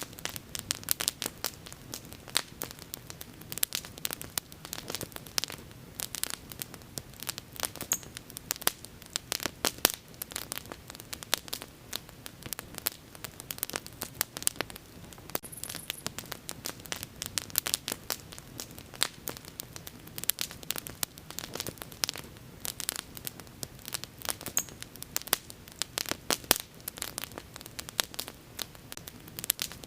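Wood fire burning: a dense, irregular run of sharp pops and crackles over a steady low hiss of flame.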